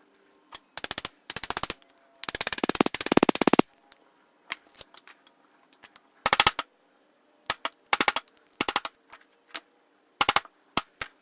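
Hand clamps being ratcheted tight: several runs of rapid, evenly spaced clicks with pauses between, the longest run lasting over a second.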